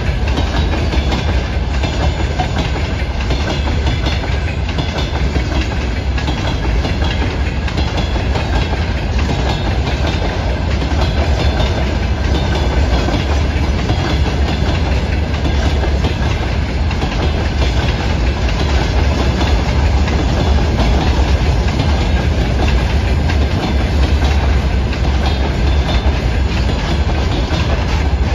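Freight train of open-top gondola wagons rolling past at a steady speed: a loud, continuous rumble of steel wheels on the rails.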